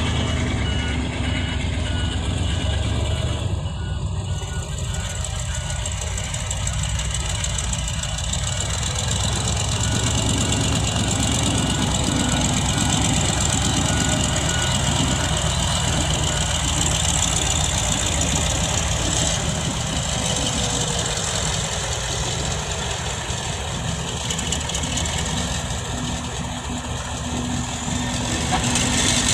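Heavy dump truck's diesel engine running steadily. Through roughly the first half, a faint evenly spaced beeping of a reversing alarm sounds over it.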